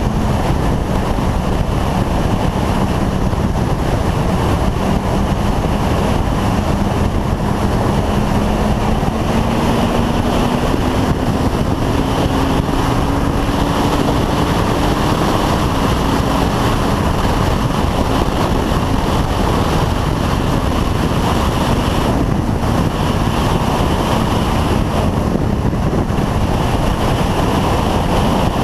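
Motorcycle ridden at speed: heavy wind rush over the microphone with the engine running underneath. Its note holds steady, climbs slowly for several seconds, then drops about halfway through.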